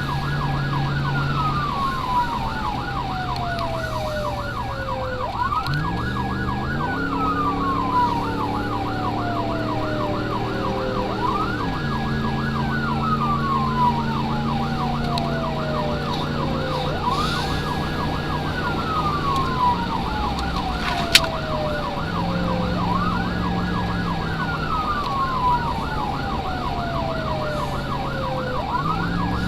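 Emergency vehicle sirens sounding together: one yelping rapidly without a break, the other wailing in slow cycles, each rising quickly, holding briefly, then sliding down, about every six seconds. Under them a vehicle engine runs, its pitch climbing and falling away once, with a single sharp click about two-thirds of the way through.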